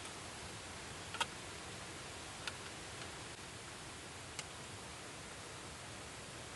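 Steady soft hiss with a few scattered sharp ticks, the loudest just over a second in.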